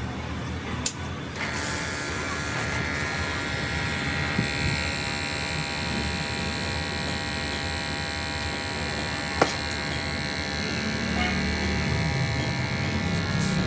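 An electric-motor machine switches on about a second and a half in and runs steadily with a buzzing, many-toned whine. There is a sharp click just before it starts and another near the middle.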